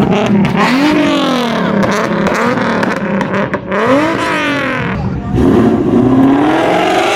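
Car engines revving hard, their pitch climbing and dropping several times as cars accelerate.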